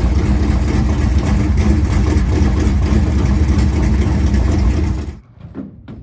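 Engine idling steadily, stopping abruptly about five seconds in.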